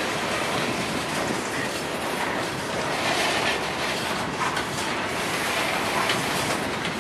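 Freight train boxcars rolling past: steel wheels on the rails make a steady rumbling noise with some faint clicks.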